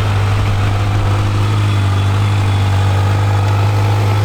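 Kawasaki Z900's inline-four engine running at a steady, unchanging pitch.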